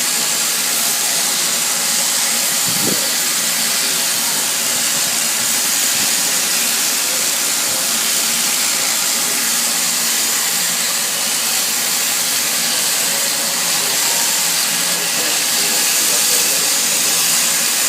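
Steady rushing wind noise over the microphone of a Kawasaki KLR 650 motorcycle riding along at road speed, with its single-cylinder engine running faintly underneath.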